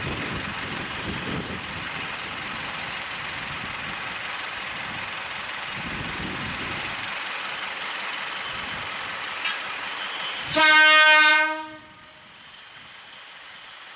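Steady running rumble of a train, then about ten and a half seconds in a single loud blast of a train horn lasting just over a second, after which the rumble is much quieter.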